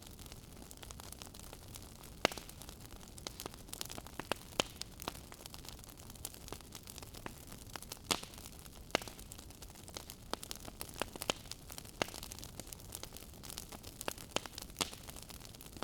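Wood fire crackling in a fireplace: irregular sharp pops and snaps over a soft steady hiss, the loudest pop a little over two seconds in.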